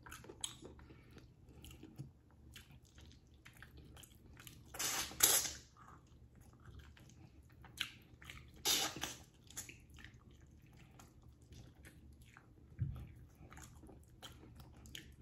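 Close-up mouth sounds of a person eating oxtail meat: soft chewing and smacking with small wet clicks, and two louder, longer wet mouth noises about five and nine seconds in.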